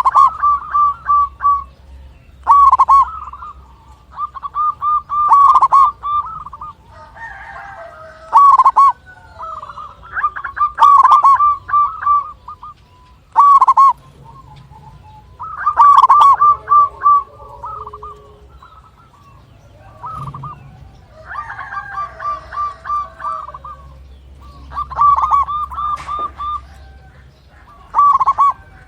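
Zebra dove (perkutut) cooing: phrases of rapid staccato notes repeated every two to three seconds, with fainter, more irregular bird chatter in the gaps.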